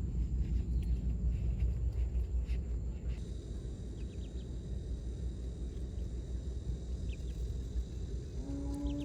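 Steady low outdoor rumble with a few faint high chirps; near the end a long, steady-pitched animal call begins.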